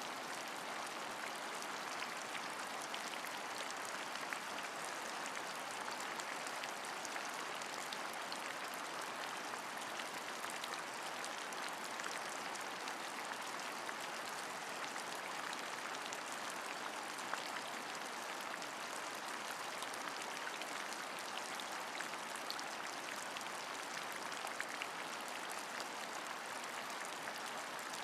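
Steady rain: an even hiss of falling rain with fine, scattered drop ticks, unchanging throughout.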